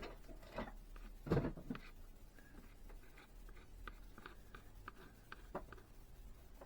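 Faint light clicks, taps and scraping of small model parts and tools being handled on a work surface, with a louder knock about a second and a half in.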